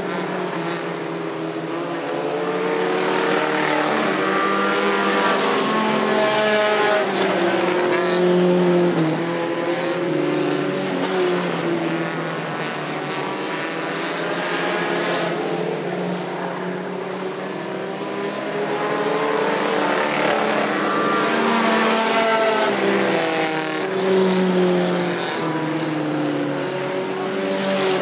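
Several mini truck engines racing at once, their pitch repeatedly rising and falling as the trucks rev up and back off. The sound swells louder twice as they come by.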